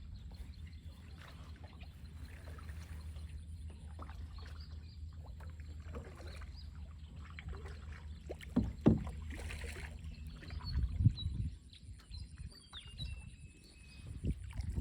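Small boat on the river with its motor running at a steady low hum, which drops away about eleven and a half seconds in. A few hard knocks sound against the boat around the middle, and birds chirp faintly near the end.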